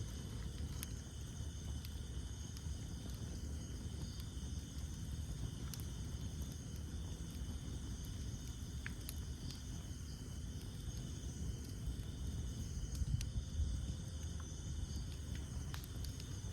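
Wood campfire burning: a low rumble of flames with scattered sharp crackles and pops, a few louder ones about thirteen seconds in, over a steady high chorus of insects.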